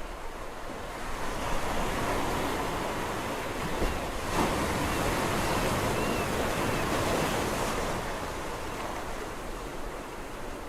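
Sea waves breaking on a shore: the surf swells about a second in, washes for several seconds, and subsides near the end.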